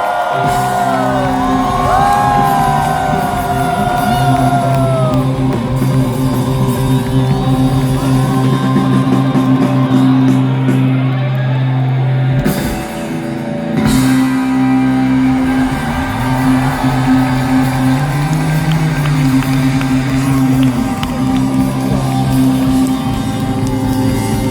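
Live rock band playing, with electric guitar bends sliding up and down in the first few seconds over steady low bass notes. The music drops out briefly about halfway through, then the band comes back in.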